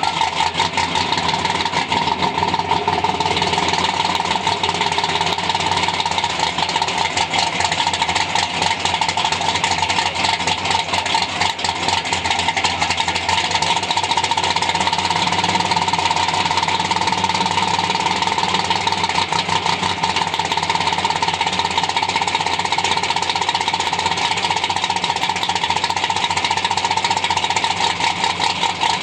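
Engine of a nitrous-equipped Chevy II drag car idling loudly just after starting, with a rapid, choppy exhaust beat that holds steady.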